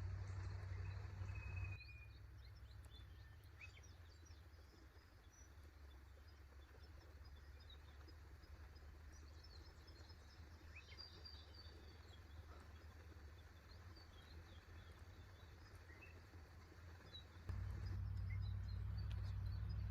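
Forest ambience: small birds chirping, with many short high calls and a few brief whistles, over a low steady rumble. The rumble falls away about two seconds in and returns louder near the end.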